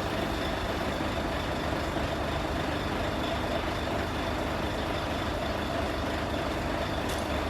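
An engine running steadily at low speed, with a faint steady whine over its rumble.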